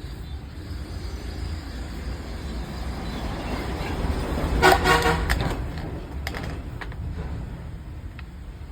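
A motor vehicle passing by, its rumble building to the middle and fading, with a short horn honk about halfway through.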